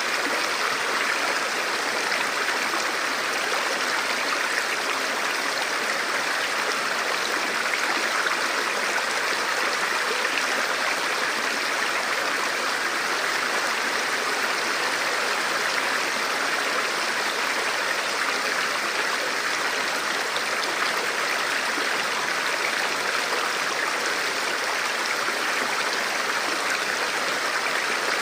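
Forest river or stream flowing over rocks: a steady, even rush of water.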